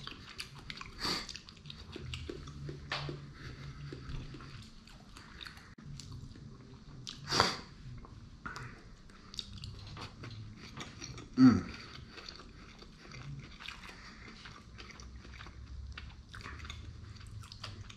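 Close-up chewing of sushi rolls, with many small wet mouth clicks and smacks. There is a louder bite about seven seconds in and a brief vocal sound about eleven seconds in.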